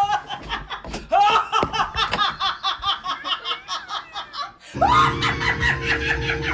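People laughing in quick bursts. About five seconds in, the sound cuts abruptly to another clip, where a steady low hum runs under more laughter.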